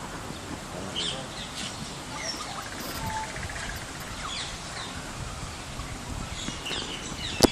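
A mix of birds chirping and calling, short overlapping notes over a steady background hum, with a single sharp click near the end.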